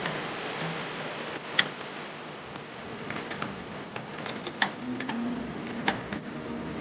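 Scattered sharp metallic clicks and taps of hand tools at work on metal, about seven spread irregularly over a steady background hiss.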